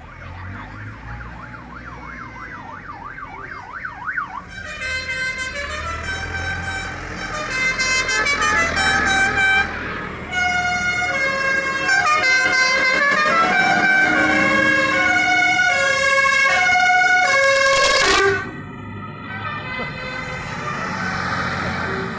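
A vehicle siren yelping rapidly for a few seconds, then a loud multi-note horn playing a tune in held, stepped notes, sometimes two at once. The tune cuts off suddenly about four seconds before the end.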